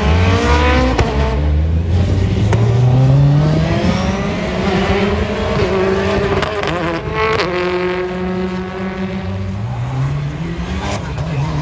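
Rally car engine accelerating hard, its revs climbing and dropping back at each gear change, with a few sharp cracks and a stretch at steadier revs partway through.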